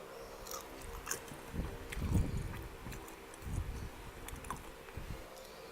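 A person chewing food close to the microphone, soft wet chewing pulses at an uneven pace with a few small mouth clicks.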